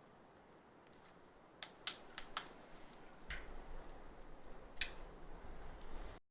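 Four quick sharp clicks, then two more spaced out, over faint low rumbling noise; the sound cuts off suddenly near the end.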